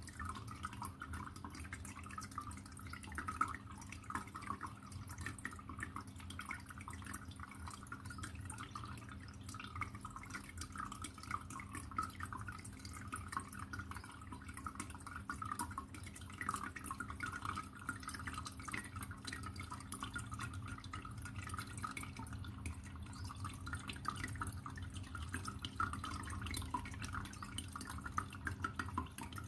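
Water trickling and dripping continuously in quick, uneven little splashes, over a low steady hum.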